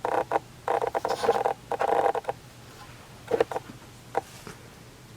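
Plastic humidifier parts and packaging being handled: bursts of rustling and clicking through the first two seconds or so, then a few single clicks as the pieces are fitted.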